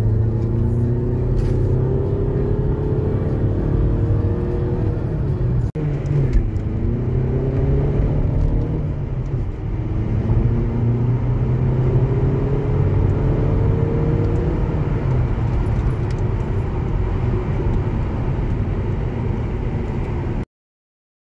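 Cabin sound of a VW Passat 2.0 TDI four-cylinder diesel accelerating, its engine note rising in pitch over road and tyre noise. The note climbs through the first few seconds, breaks off about six seconds in, then climbs again.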